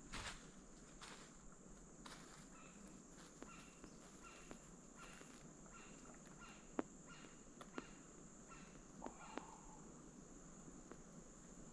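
Faint woodland insect chorus, a steady high buzz, with a run of short, evenly repeated chirps, a little under two a second, in the middle. A couple of footsteps on the trail at the start and a few sharp ticks.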